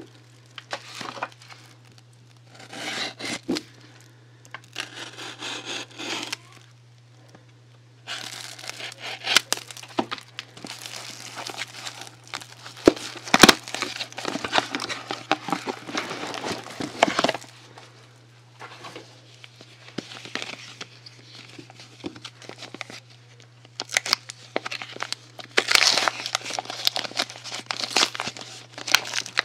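Soap packaging being unwrapped by hand: plastic and paper wrapping crinkling and tearing in irregular stretches, with sharp crackles and clicks, over a steady low hum.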